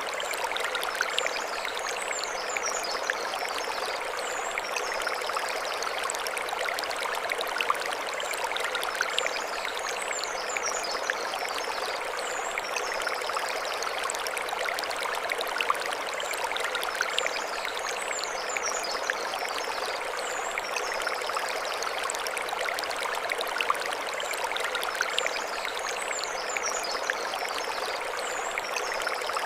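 Mountain stream flowing over stones, a steady rushing and splashing. A high chirping phrase comes back at even spacing about every eight seconds.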